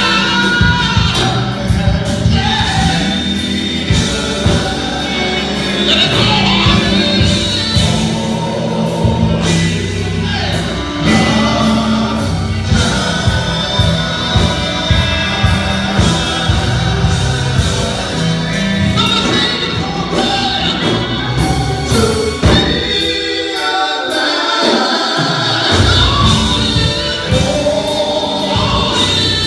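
Gospel music with choir singing over a steady bass line; the bass drops out for a couple of seconds near the end.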